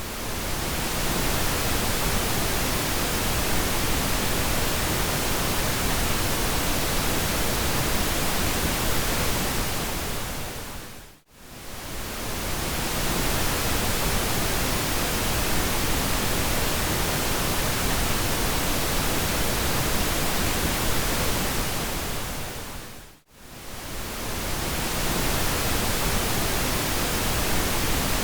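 Steady synthetic pink noise, an even hiss. It fades briefly down to near silence and back up twice, about twelve seconds apart.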